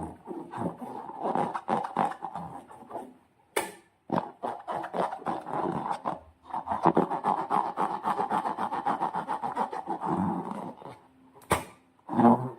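Slime being squished and worked by hand, a rapid run of sticky clicks, squelches and rubbing that pauses briefly a few times.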